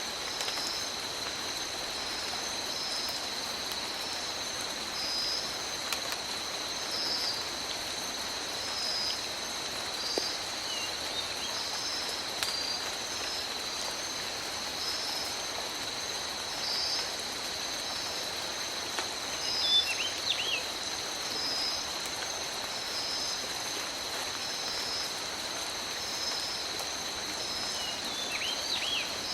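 Steady tropical rain falling on forest foliage. Over it runs a constant high insect drone with a pulsing high call about once a second. A few brief bird chirps come about two-thirds of the way in and again near the end.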